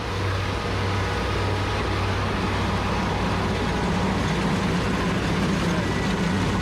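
Rice combine harvester's engine running steadily with a continuous mechanical drone.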